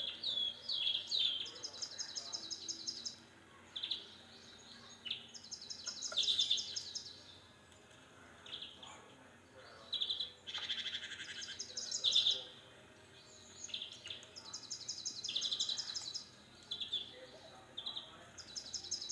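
Birds calling: high, rapid trills about a second long, repeated every few seconds (five in all), mixed with short chirps in between.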